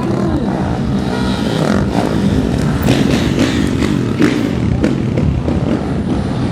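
A motor vehicle's engine running loud and revving, its pitch rising and falling in the middle, with a few sharp clatters.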